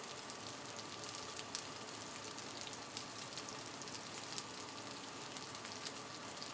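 Chicken wings frying on a flat-top griddle: a steady sizzling hiss with many small scattered pops and crackles.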